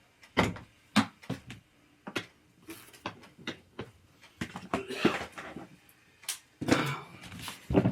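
Irregular knocks, clicks and scraping as gaming chair parts are handled and fitted together during assembly.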